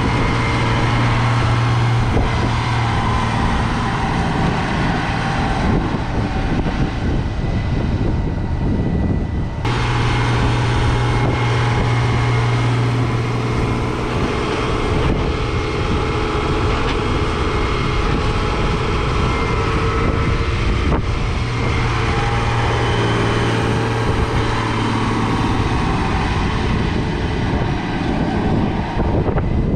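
Heavy diesel farm machinery running steadily under load, with a deep engine hum and loud mechanical noise. The sound changes abruptly twice, about ten seconds in and about twenty seconds in.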